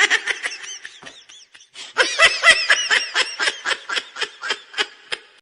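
Laughter sound effect: a person laughing in quick bursts of ha-ha pulses. It breaks off for about half a second, then comes back in a longer run of laughs that trails away near the end.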